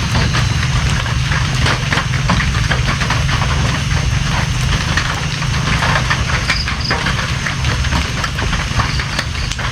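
Steady rain, with many separate drops tapping and a constant deep rumble underneath.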